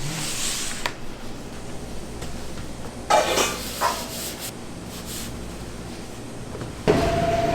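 Bakery kitchen work sounds: a brief hiss, then a few short clatters of utensils. Near the end an appliance switches on suddenly and runs with a steady hum.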